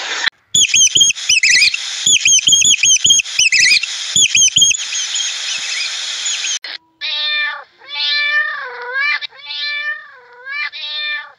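A rapid run of high-pitched squeaky chirps and sharp clicks, then a hiss. From about seven seconds in, a domestic cat meows four times in drawn-out calls that bend in pitch.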